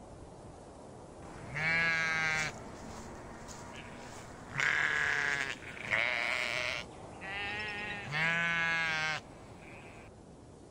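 Sheep bleating: five calls of about a second each, every call quavering.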